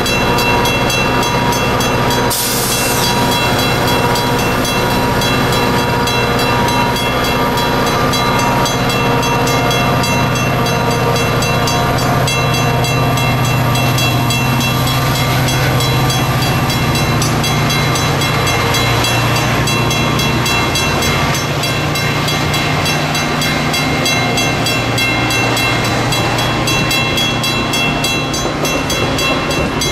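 Metra commuter train passing close by: the diesel locomotive runs as it pulls away while the stainless-steel double-deck cars roll past, giving a steady heavy rumble and wheel noise. Steady high ringing tones sit over it, with a brief hiss about two and a half seconds in.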